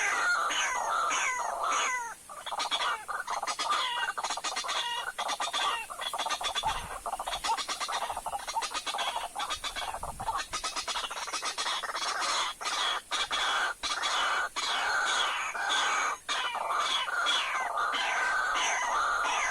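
White-breasted waterhens calling: loud, repeated harsh notes that each fall quickly in pitch. In the middle the notes break into a fast run of short clicking sounds.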